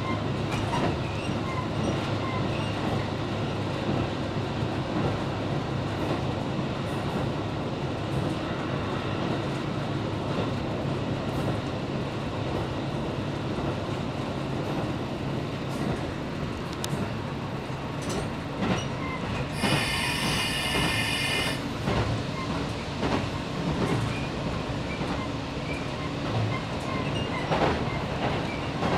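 Wakasa Railway 'Showa' diesel railcar running, heard from inside the cabin: steady engine and wheel noise with scattered clicks over the rail joints. About two-thirds of the way through, a shrill high tone sounds for about two seconds, and a steady low hum sets in at about the same time.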